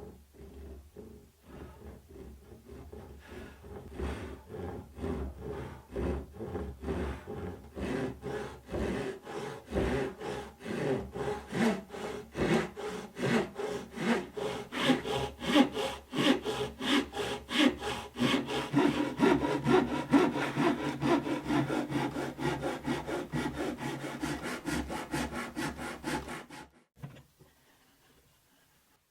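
Hand saw cutting through wood in quick, even back-and-forth strokes. The strokes are sparse at first, settle into a steady three or four a second, and stop abruptly near the end.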